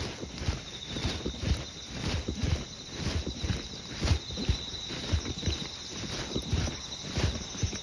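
A person's walking footsteps, about two steps a second, over the steady high chirring of insects.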